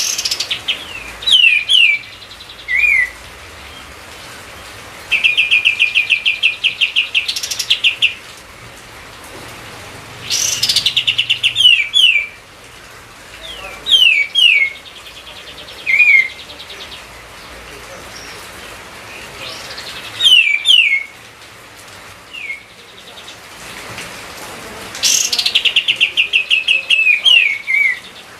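Kapas tembak songbird singing vigorously in separate phrases: quick downward-slurred whistles, often in pairs, and now and then a fast trill of some twenty notes lasting about three seconds, with short pauses between phrases. A faint steady hiss runs underneath.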